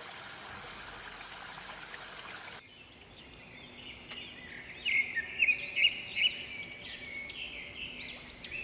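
A steady hiss that cuts off after about two and a half seconds, then, from about five seconds in, a busy chorus of high, quick chirping bird calls.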